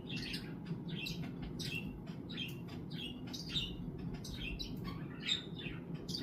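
Budgies chattering: a continuous stream of short, quick chirps.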